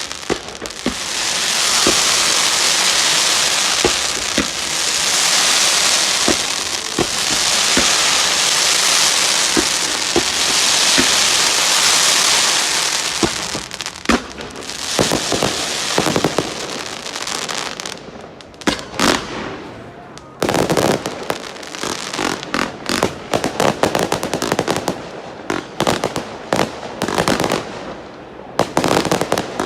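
Fireworks going off: a loud, dense hiss with scattered pops for the first dozen seconds or so, then rapid strings of sharp crackling bangs that grow thicker toward the end.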